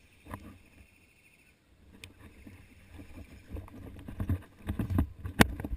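Irregular knocks and rustling that get busier in the second half, with a few sharp clicks; the loudest click comes near the end.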